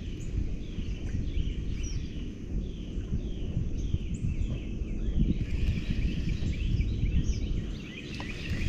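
Outdoor wildlife calling over a low rumbling noise: small birds repeat short falling chirps about twice a second, the calls getting busier about halfway through.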